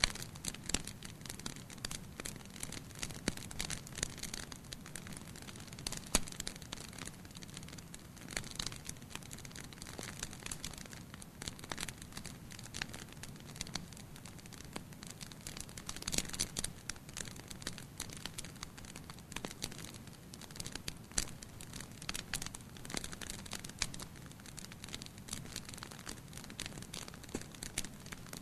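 Wood fire burning in a fireplace: irregular crackles and sharp pops of the burning logs over a steady low rush of flame.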